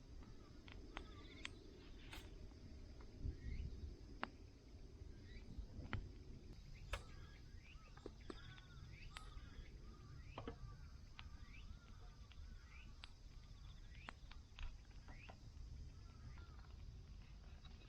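A wood campfire crackling with scattered sharp pops, while small birds chirp repeatedly in the background.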